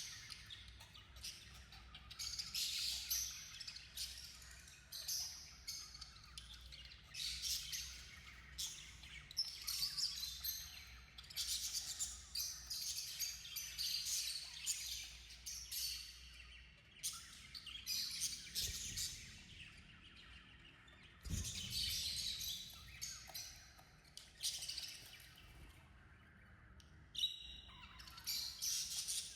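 A flock of budgerigars chirping and warbling in quick, busy bouts with short pauses between them.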